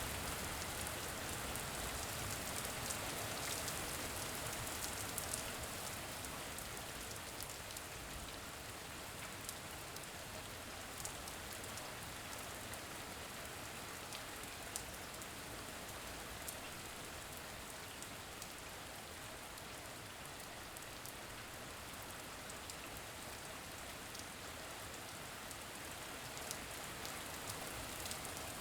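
Steady rain, an even hiss with scattered single drop ticks, a little quieter after the first few seconds.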